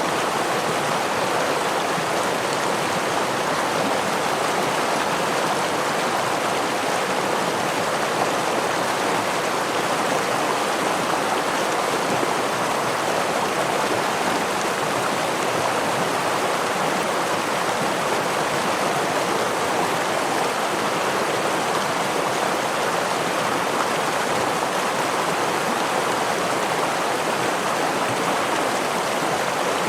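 Water of a forest stream falling over a small waterfall, a steady, even rush with no breaks.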